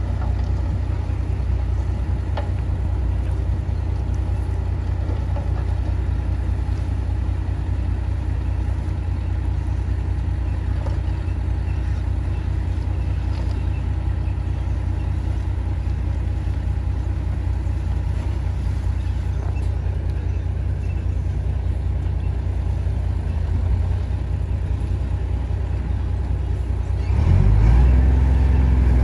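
Heavy diesel engine of earth-moving machinery running steadily with a deep rumble, getting louder near the end as it comes under more throttle.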